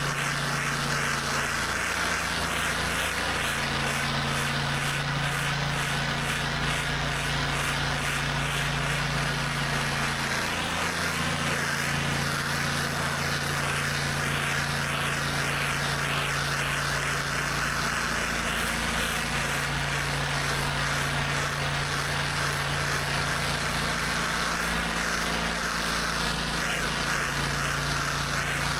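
Pressure washer's engine running steadily under load, its pitch shifting slightly every few seconds, with the constant hiss of the high-pressure water spray.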